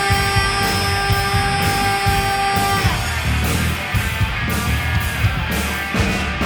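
Live rock band playing, with electric guitar over drums and bass; a long held note ends about three seconds in.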